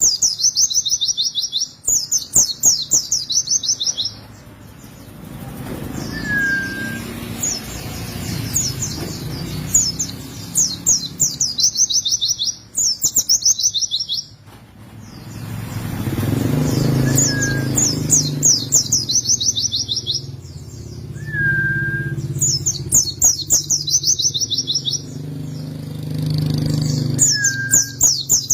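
A white-eye (pleci) singing long, fast, high trills of rapidly repeated notes in bursts of one to three seconds, with a few short lower whistles between them. A low rumble rises and falls underneath, swelling around a third of the way in and again past the middle.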